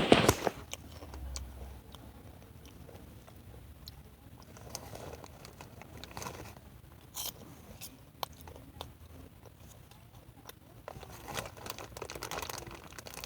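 Popcorn being crunched and chewed close to the microphone, in bursts: a loud crunch at the start, scattered quieter bites and chewing in the middle, and another run of crunching near the end.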